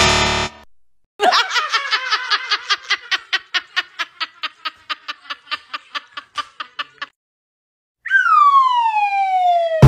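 Electronic sound effects: a short burst, then a rapid run of pitched beeps, about five a second for some six seconds, then after a short gap a long tone that slides steadily down in pitch.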